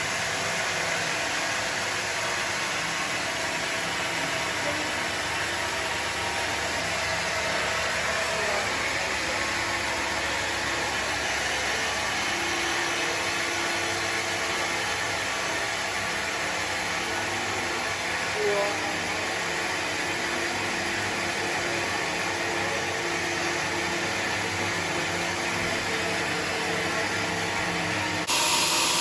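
Sawmill machinery running steadily with an even, noisy drone, turning abruptly louder and brighter near the end.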